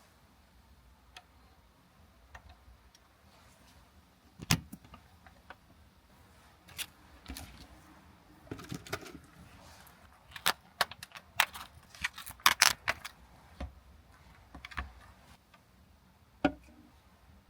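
Irregular clicks, taps and light clinks of small hard objects being handled, coming in scattered ones and twos at first and bunching into a quick flurry about two-thirds of the way in.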